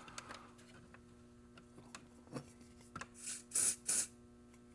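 A few light plastic handling clicks and taps, then three short hisses of a spray can, glue accelerator being sprayed onto a fresh glue joint, near the end.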